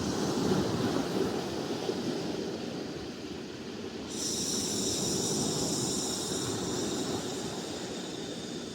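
A person exhaling a long hissing "shhh", the qigong healing sound of the liver. One exhalation tails off in the first second and another starts suddenly about four seconds in, over a steady low rush of background noise.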